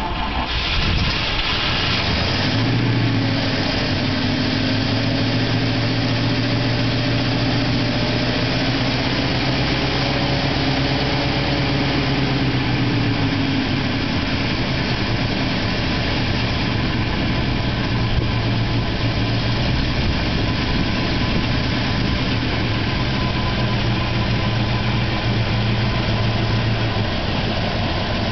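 A 1939 LaSalle's flathead V8 runs on its freshly rebuilt carburettor. It settles into a steady idle within the first few seconds and holds it, with a slight waver in pitch partway through.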